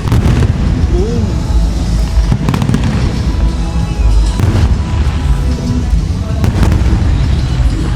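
Aerial fireworks booming and crackling over loud music, with sharp bursts near the start and about every two seconds after.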